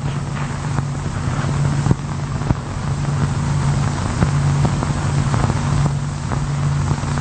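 A steady low drone with an even hiss and scattered faint clicks, engine-like, with no speech.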